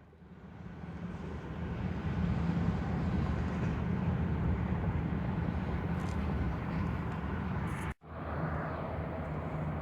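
Steady vehicle rumble and road noise. It swells up from a dip at the start and cuts out abruptly about eight seconds in before resuming.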